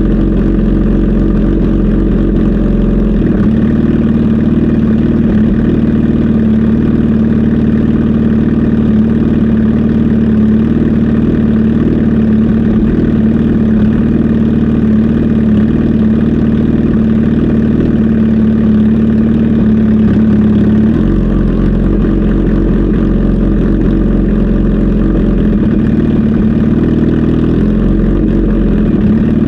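Kawasaki Z H2 SE's supercharged inline-four engine running steadily, with its note shifting about three seconds in and again about twenty-one seconds in.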